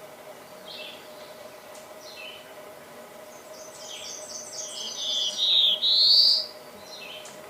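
Reinita azulada warbler singing: a few short high chirps, then a louder song of quick repeated buzzy notes that ends in a rising buzz. A faint steady hum runs underneath.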